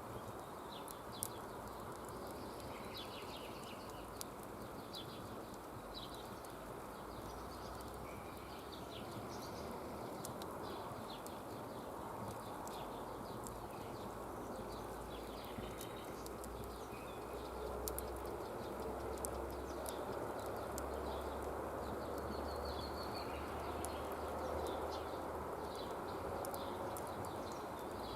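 Wood campfire burning steadily, with irregular sharp crackles and pops over a continuous hiss.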